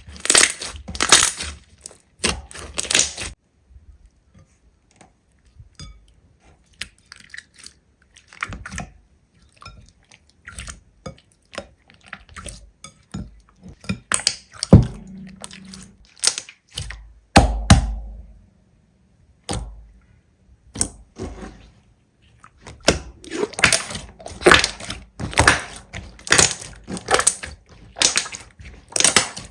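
Slime being handled with crunching and crackling, many short crackles close together at the start and again over the last several seconds, sparser in between with a couple of heavier thuds midway.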